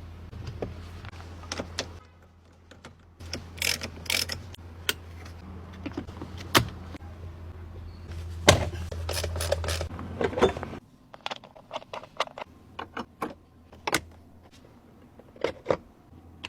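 A series of sharp clicks and knocks, like small hard parts being handled, over a low steady hum that cuts off about eleven seconds in.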